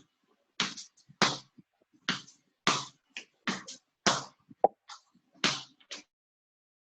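A basketball being pounded hard against the floor in a crossover dribbling drill, about two bounces a second with some in quick pairs as the ball is crossed over. The bouncing stops about six seconds in.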